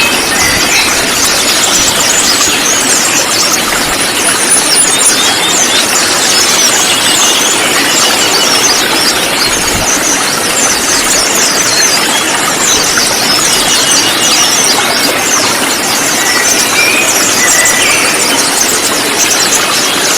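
A flock of sunbirds (konin), many chirping and trilling at once in a dense, continuous chorus of quick, high notes over a steady rushing hiss.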